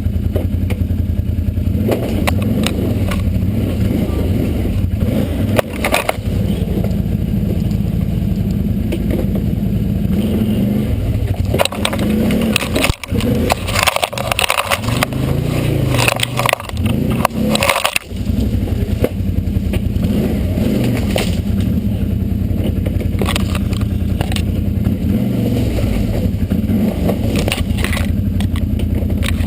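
Engine of a 4x4 off-road vehicle in four-wheel drive running hard and revving up and down as it crawls over rock, with repeated knocks, scrapes and clatters of rock against the tyres and underbody, thickest in the middle.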